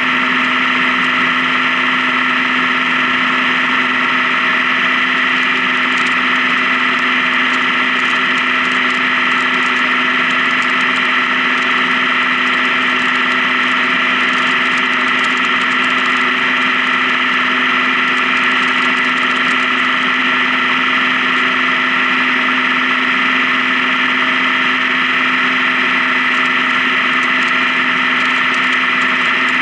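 Honda Gold Wing touring motorcycle engine running steadily while riding, a constant drone that holds one pitch.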